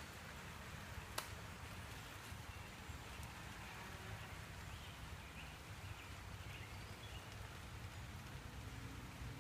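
Light rain and outdoor background noise, with one sharp click about a second in and a few faint, short high chirps in the middle.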